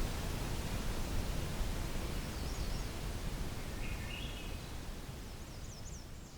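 Evening outdoor soundscape: a steady rustling background noise with a few faint, distant bird calls, the last a quick run of high notes, the whole recording fading out near the end.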